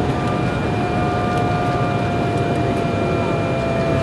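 Jet airliner heard from inside the passenger cabin: a steady rush of engine and airflow noise with a held whine of several tones, the lowest tone sinking slightly.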